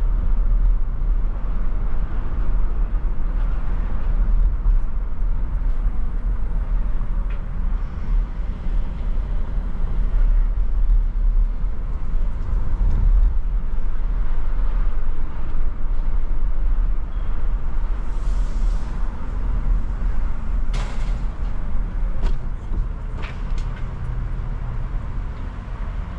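Car driving through city streets: a steady low rumble of engine and road noise, with a short hiss about eighteen seconds in and a few sharp clicks near the end.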